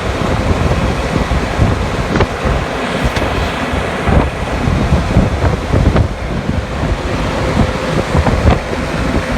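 Strong wind blowing across the microphone, loud and gusty, with heavy low buffeting.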